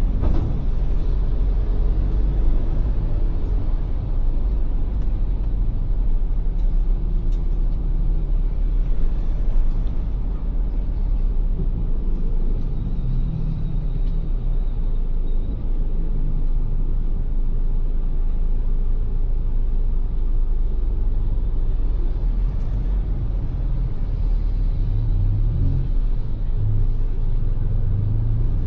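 Ford Everest SUV driving, a steady low engine and road rumble that rises and falls slightly with speed.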